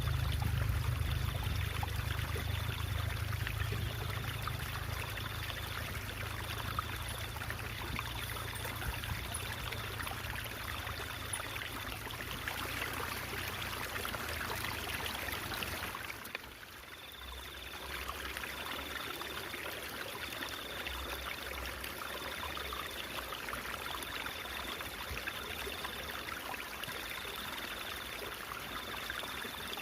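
Stream water trickling and babbling steadily. About halfway through the sound dips briefly and a low rumble drops away, and a faint high tone pulses on and off throughout.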